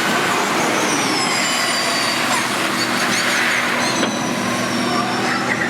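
Formula E electric race car passing at speed: the high-pitched whine of its electric motor and gearbox falls in pitch as it goes by, over a steady rushing noise.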